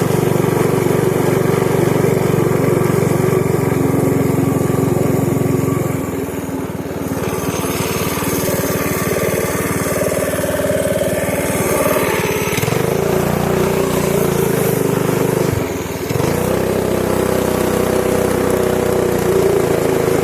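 Pit bike engine running while being ridden, steady at first, then rising in pitch twice in the second half as it is throttled up, with a brief drop between the two.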